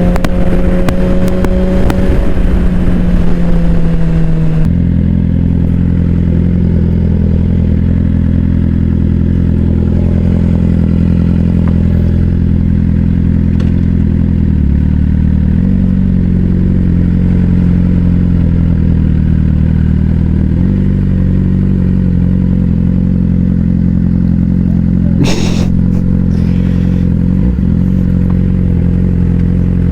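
Suzuki GSX-R600's inline-four engine: for the first few seconds the bike is riding with wind rush and the engine note falling, then the wind drops away about five seconds in and the engine idles steadily. A brief sharp click comes about five seconds before the end.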